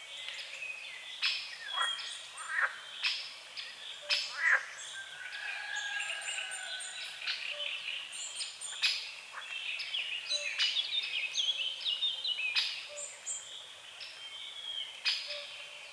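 Several songbirds chirping and singing over one another in a dawn chorus, with many short calls, trills and sliding notes overlapping throughout.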